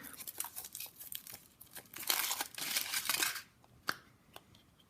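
Foil wrapper of a Kinder Surprise egg being torn and crinkled off, loudest in the second and third seconds, followed by a few light clicks.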